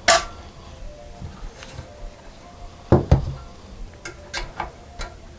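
Knocks and clicks of objects being handled and set down on a hard work surface: one sharp knock at the start, a loud double knock about three seconds in, then a few lighter clicks.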